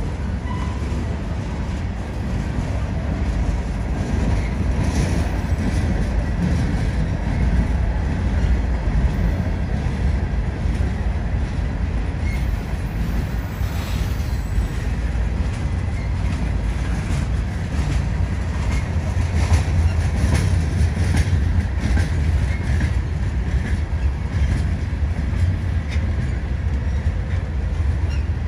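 A train rolling by: a steady low rumble with scattered clicks and clacks of the wheels on the rails.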